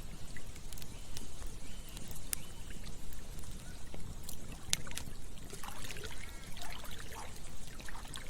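Campfire crackling with scattered sharp pops over the steady rush of running water. A few short chirping calls come in past the middle.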